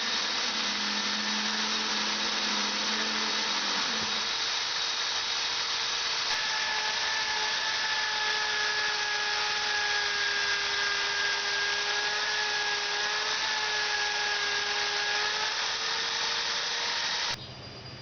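Small, worn drilling machine running steadily while a centre drill cuts the marked centre marks. A thin whine from the cutting joins about six seconds in and fades near fifteen seconds. The motor cuts off suddenly near the end.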